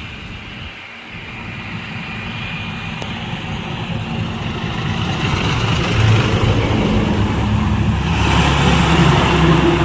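Heavy truck's engine rumbling and growing steadily louder as it draws near, loudest in the second half.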